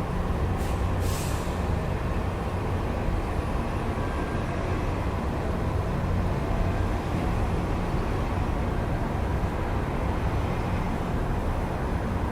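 City traffic heard through an open window: a steady low rumble of passing vehicles, with two short hisses about a second in.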